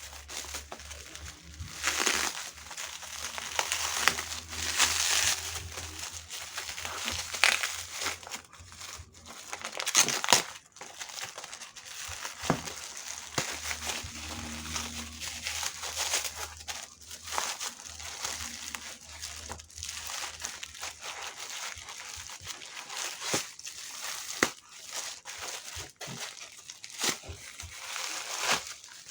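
Plastic and cardboard packaging crinkling and rustling, with irregular clicks and knocks of handling, as a circular saw blade is unboxed.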